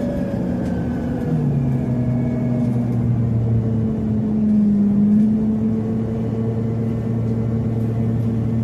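Scania CN270UB city bus with a CNG engine, heard from inside the cabin while driving: a steady engine and drivetrain hum over road noise. The pitch drops about a second in, and the sound gets slightly louder around the middle.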